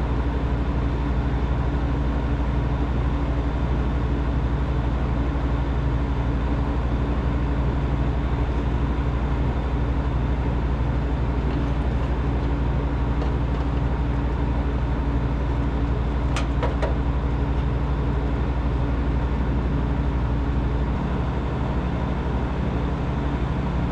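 Steady mechanical hum of running HVAC equipment, with a brief high squeak about sixteen seconds in.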